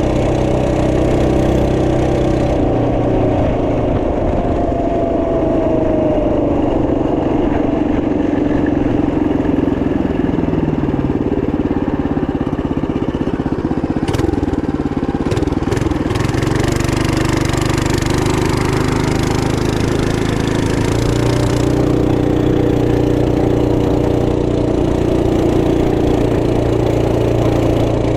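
Small single-cylinder 212cc four-stroke minibike engine running without a break. Its speed eases off through the first half and picks up again in the second half, with a few sharp clicks about halfway through.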